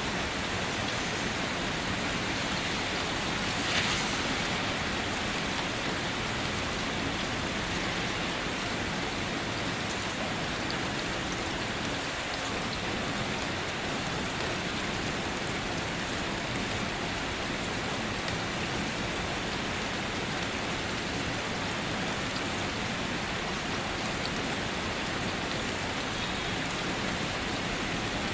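Steady night rain falling, with one louder drop tap about four seconds in.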